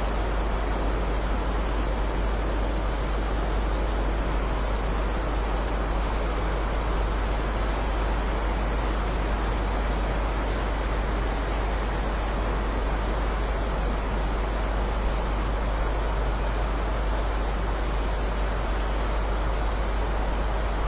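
Steady heavy rain: a dense, even hiss with no separate drops or pauses, over a constant deep rumble.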